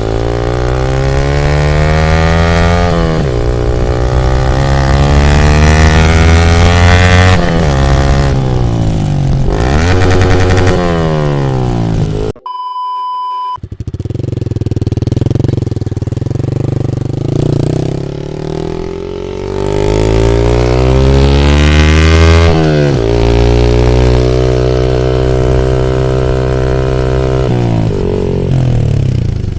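Yamaha MT-15 V2's 155 cc single-cylinder engine through an aftermarket Akrapovič full exhaust, accelerating through the gears: the pitch climbs, drops at each upshift, then climbs again. About twelve seconds in, the engine sound cuts out for about a second and a short electronic beep plays instead.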